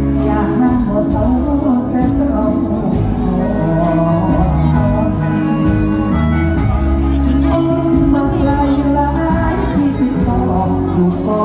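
Live Thai luk thung band music with singing, driven by a steady drum beat and heavy bass.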